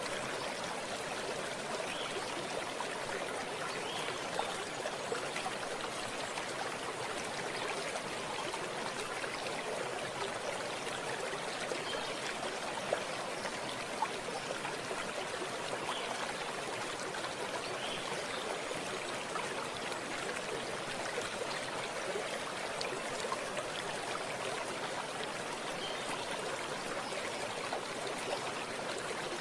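Stream water running and trickling steadily, with small splashes flickering through the flow.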